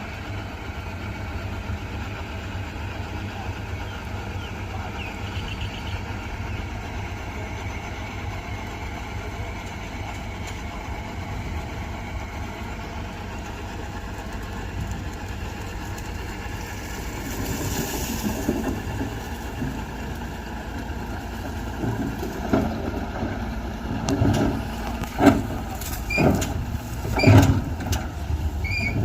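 Mitsubishi BD2G bulldozer's diesel engine running steadily, growing louder and rougher past halfway, with several sharp metallic knocks and clanks in the last few seconds.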